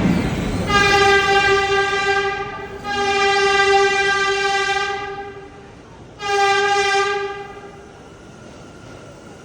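Train horn sounding three blasts on one steady pitch: two long blasts, then a shorter third one, over the train's steady running noise.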